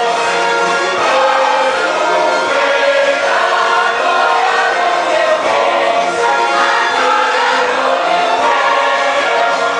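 A choir singing a Christian praise song, many voices holding sustained notes together without pause.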